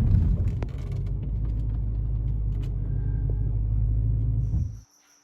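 BMW E90 M3 driving, a steady low engine and road rumble that eases slightly about a second in and cuts off abruptly near the end.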